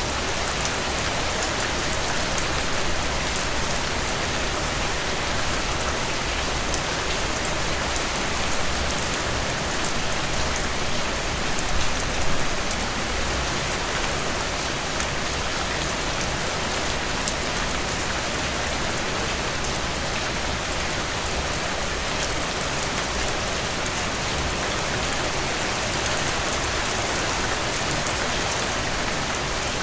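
Steady rain falling, drops pattering on a surface in a continuous even hiss, with a couple of slightly louder splashes about twelve seconds in.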